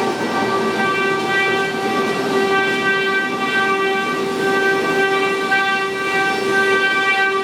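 Spindles of a 12-head, 4-axis CNC wood router running at high speed: a steady high-pitched whine over a rough rushing noise.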